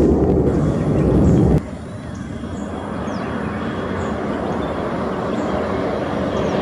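Jet airliner engines: a loud, low roar cuts off suddenly about a second and a half in, followed by a quieter jet rumble that slowly builds.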